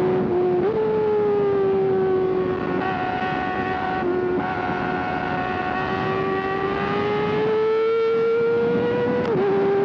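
Sportbike inline-four engine held at high revs under way, its pitch jumping up about half a second in, sagging slowly and climbing again, then dropping sharply near the end as a gear changes, with wind rushing past.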